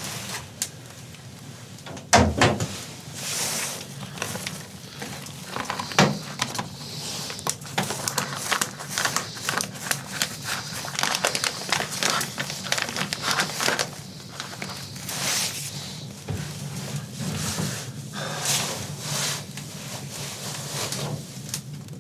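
Rustling, crackling and knocking of things being handled in a small room, with sharper knocks about two and six seconds in.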